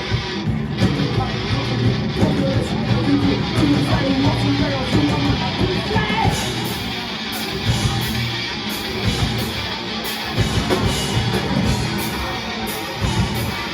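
Live rock band playing loud, with electric guitar strumming; regular drum and cymbal hits come in about six seconds in.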